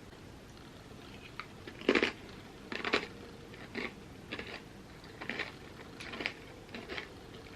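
Crunchy chips being bitten and chewed close to the microphone: a run of irregular crisp crunches, the loudest two in the first few bites.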